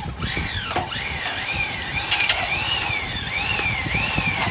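Electric power tool running under varying load, its whine rising and falling in pitch about every half second.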